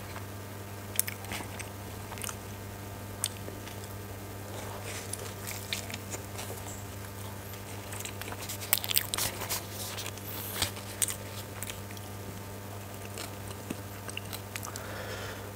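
Close-miked biting and chewing of a big mouthful of egg roll: scattered wet mouth clicks and smacks, busiest from about nine to eleven seconds in. A steady low hum runs underneath.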